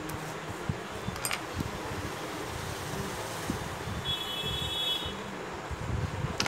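Steady background hiss, with a sharp click about a second in and a short high electronic beep about four seconds in.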